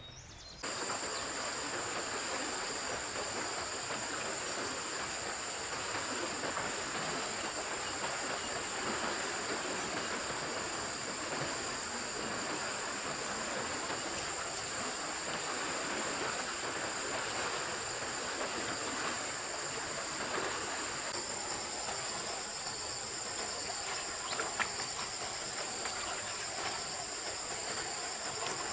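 A steady chorus of insects, two continuous high-pitched trills, over the even rush of a flowing stream. It starts abruptly under a second in.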